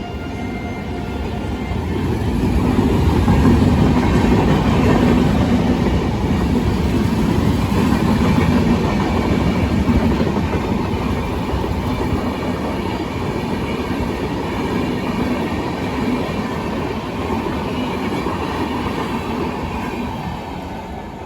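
Passenger express train running past at speed, its wheels clacking over the rail joints. The sound swells over the first couple of seconds, is loudest a few seconds in, then slowly dies away as the coaches go by.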